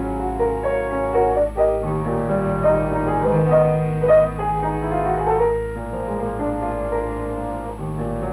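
Background piano music, a melody over held low notes.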